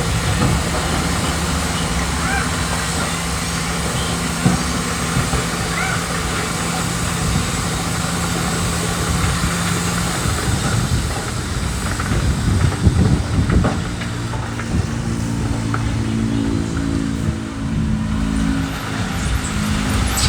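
Heavy diesel earthmoving machinery working: a steady engine note for about the first ten seconds, then a rougher stretch with rattling and crunching, and from about fifteen seconds in a second engine note that rises and falls.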